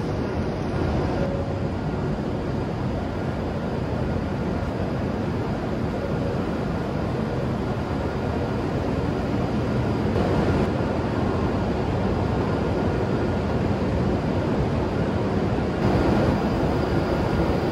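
Steady rumbling hum of a Shinkansen train standing at the platform, its onboard equipment running, mixed with platform ambience.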